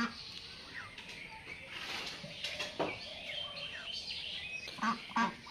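A flock of domestic geese feeding, with many short high chirping calls throughout and two short honks near the end.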